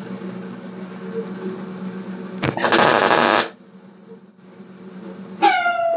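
Garage power-tool noise: a steady hum, then a loud harsh burst lasting about a second, and near the end a tool motor's whine that starts up and settles slightly lower in pitch.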